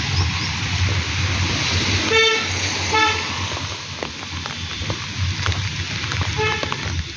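Steady monsoon rain hissing, with a vehicle horn tooting three short times: twice about two and three seconds in, and once more near the end.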